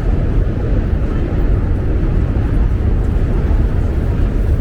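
Steady, loud rumble of city street noise on a rainy day, heavy in the low end, with no single event standing out.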